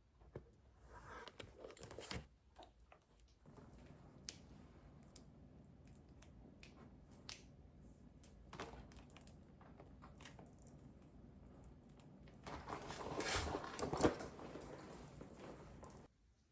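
Small objects being handled at close range: scattered sharp clicks and taps, then a louder noisy stretch of rustling and handling lasting about four seconds near the end, which cuts off suddenly.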